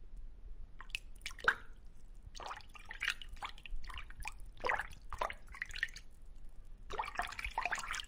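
Water dripping and bubbling in irregular drops over a faint low steady hum, as in an aquarium.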